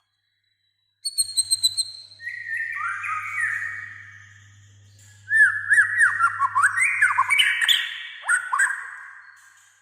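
White-rumped shama singing. After a second of silence, a rapid high trill, then a run of varied sliding whistles. About five seconds in comes a loud, fast string of hooked notes mixed with sharp clicks, which fades out near the end.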